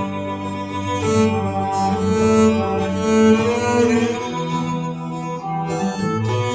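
Instrumental break of a slow song: bowed strings, with a cello prominent, playing a melody of held notes that change every second or so.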